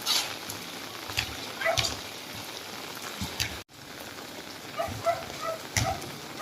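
Steady rain falling, with scattered drops tapping close by. The sound cuts out for an instant about three and a half seconds in.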